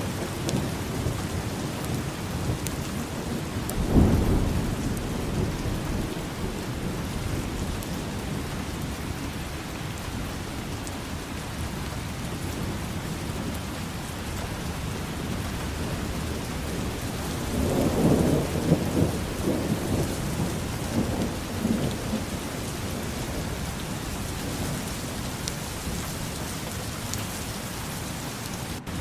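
Steady heavy rain falling in a city, with a short low clap of thunder about four seconds in and a longer rolling rumble of thunder about two-thirds of the way through.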